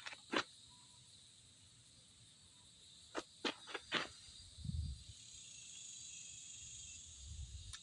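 A few light clicks and taps of handling, with a couple of soft low thumps, over a faint steady high chirring of insects.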